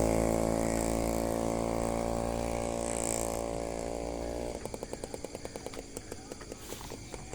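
Small motorcycle engine running with a steady hum that fades as it moves away. About four and a half seconds in, the hum gives way to a rapid, even pulsing putter.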